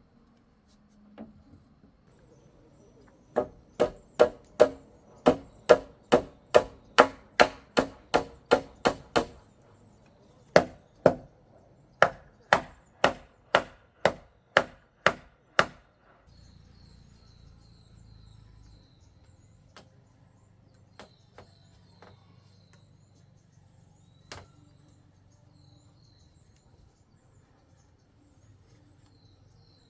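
Sharp blows of a hand tool on wood, about two a second, in two runs of roughly a dozen strokes each with a short pause between.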